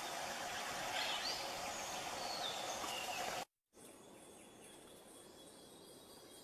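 Steady forest ambience with a few faint, brief bird whistles. About three and a half seconds in the sound cuts out for a moment and returns much quieter.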